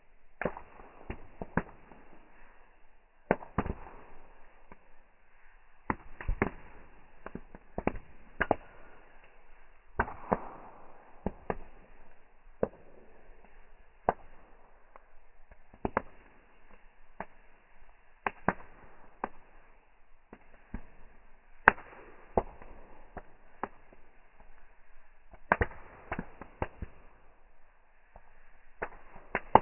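Sharp cracks and pops at uneven intervals, about one every second or two, over a faint steady hiss.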